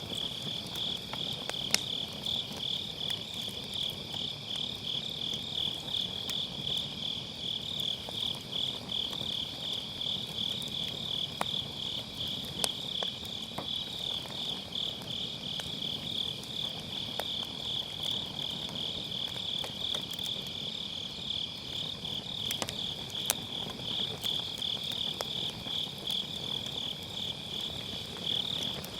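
Crickets chirping in a steady pulsing trill, over firewood burning in a fire pit that crackles and gives off sharp pops now and then.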